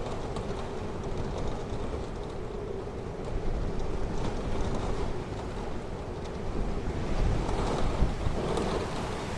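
Ocean surf washing onto the shore, with wind rumbling on the microphone. The surf swells a few seconds in and again near the end.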